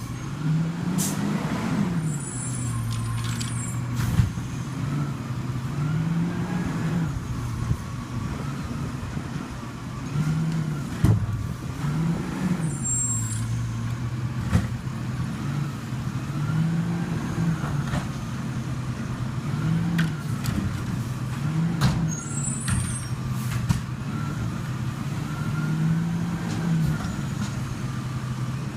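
Rubbish truck engine running, its note rising and falling in repeated swells every couple of seconds, with occasional sharp knocks and clanks.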